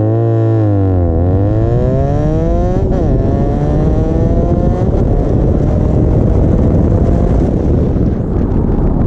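Sport motorcycle engine accelerating hard, its pitch climbing. It drops sharply at an upshift about three seconds in and climbs again through the next gear. After about five seconds it turns into a steady, noisier drone at speed.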